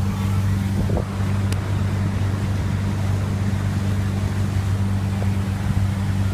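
Boat motor running steadily under way, a constant low drone, with the rush of wind and water over it.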